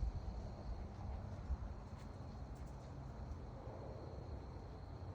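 Faint outdoor night ambience: an uneven low rumble under a thin, steady high-pitched tone, with a few faint ticks about two to three seconds in.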